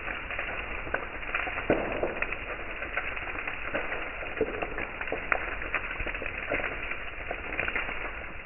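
Bonfire crackling, with irregular sharp pops and snaps over a steady hiss.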